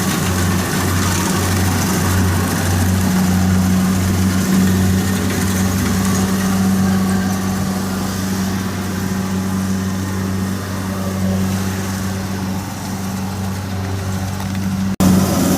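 Kubota DC60 combine harvester's diesel engine running steadily. A low hum throbs for the first few seconds, then evens out.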